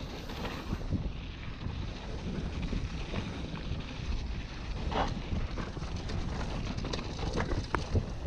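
Wind buffeting the microphone of a camera on a moving mountain bike, a steady low rumble with scattered sharp knocks and rattles from the bike running over a rough dirt trail.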